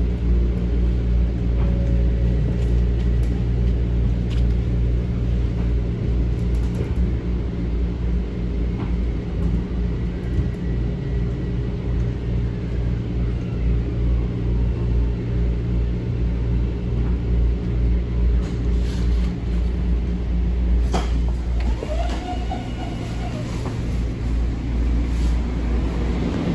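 Metro-North M7A electric train heard from inside a passenger car while running: a steady rumble of wheels on track with a low hum. Near the end come a few sharp clicks and a brief squeal that glides up and down.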